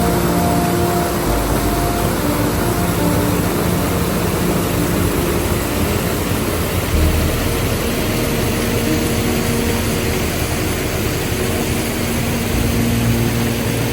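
Steady loud rushing roar of falling water from a waterfall.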